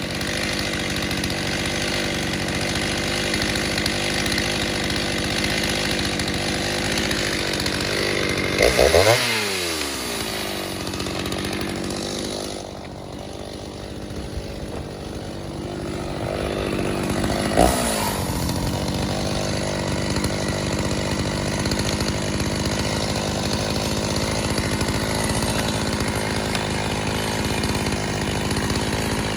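Rebuilt Stihl 029 two-stroke chainsaw with a 45 mm big-bore cylinder, running hard. About nine seconds in it revs sharply and drops in pitch, then runs quieter for a few seconds. It revs up again just before the eighteen-second mark and goes back to its steady high-rev running.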